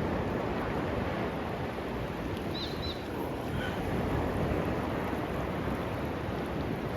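Sea surf washing steadily on the beach, mixed with wind rumbling on the microphone.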